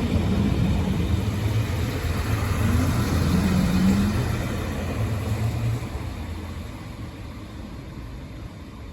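Diesel engine of an HLB Alstom Coradia LINT 54 railcar running with a low hum during a shunting move, fading away after about five and a half seconds.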